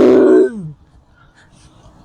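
A drawn-out wordless vocal cry, held on one pitch and then sliding down as it trails off, ending about three quarters of a second in.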